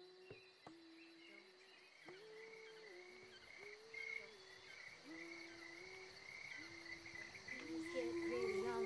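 Crickets chirping in a steady night-time chorus. Under it a soft, low melodic phrase steps up and falls back, repeating every second or two, and grows louder near the end.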